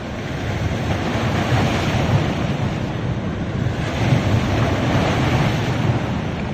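Ocean surf washing onto a beach, surging louder twice: a little after a second in and again around four seconds in. Wind rumbles on the microphone.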